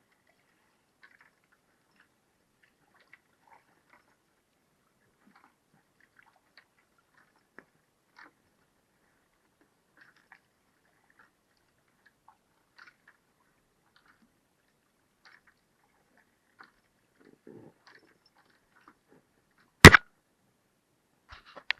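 Faint scattered small clicks and ticks, then one loud, sharp knock near the end, followed by a quick cluster of smaller knocks.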